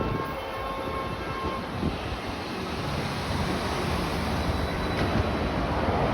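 Lagos Blue Line metro train running, a steady rumble and rushing noise, with a faint whine that fades after about two seconds.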